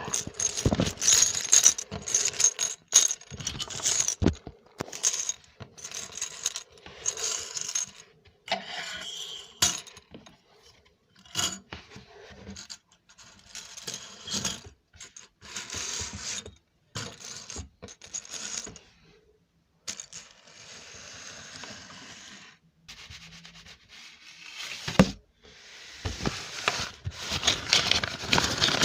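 ASMR trigger sounds: an irregular run of small taps, clicks and scratches on hard objects, with a softer, steadier rustling stretch about two-thirds of the way through and busier handling near the end.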